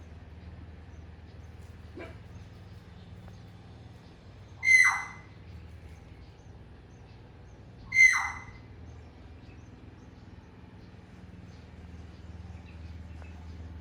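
Two loud single chirps from Eurasian tree sparrows at the nest, a few seconds apart, each falling in pitch. A faint steady low hum runs underneath.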